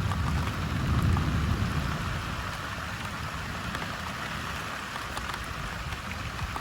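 Heavy thunderstorm rain falling steadily. A deep low rumble breaks in suddenly at the start, is loudest for the first two seconds and dies away by about three seconds in.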